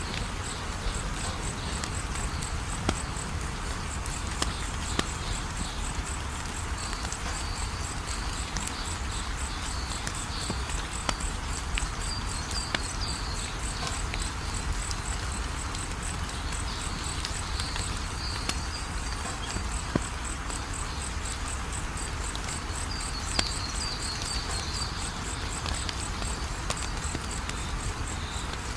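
Wood fire crackling, with sharp pops scattered through it over a steady low rumble. Behind it, insects chirp in a fast, even high-pitched pulsing that never stops, with a warbling chirp coming and going.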